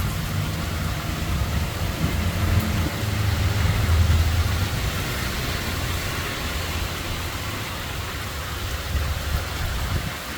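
Steady rain falling, under a low droning rumble that swells about four seconds in and fades away toward the end.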